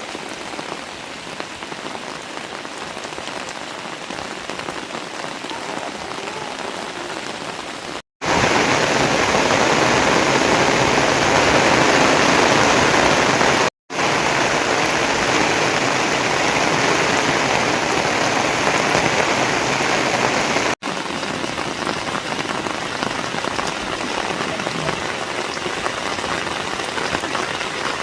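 Steady heavy rain falling, as a spread of even hiss. It comes in several spliced shots: the level jumps at sharp cuts about 8, 14 and 21 seconds in, and the rain is loudest in the middle stretch.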